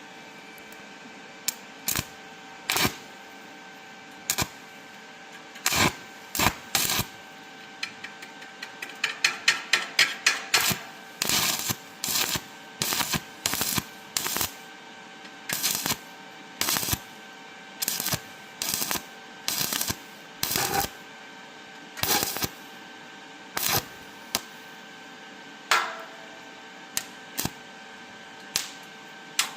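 Stick-welding arc from an ESAB 180i Pro inverter welder at 55 amps with a 2.5 mm basic electrode on thin 2 mm steel profile: irregular sharp crackling pops as the arc strikes and breaks, with a quick dense run of crackles about ten seconds in. At this low current the basic rod keeps sticking to the thin profile.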